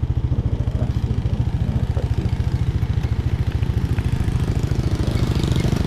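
Motorbike engine running steadily with an even, rapid chugging of about a dozen beats a second and no revving.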